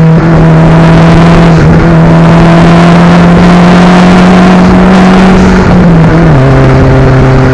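Daihatsu Copen L880K's small turbocharged four-cylinder engine and exhaust running loud and steady under load while pulling uphill. The engine note holds one pitch, then drops to a lower pitch about six seconds in.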